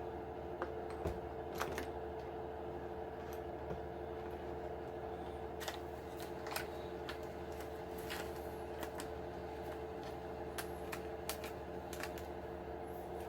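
Scattered light clicks and taps from handling the plastic and Lexan parts of an RC truck body, over a steady hum in the room.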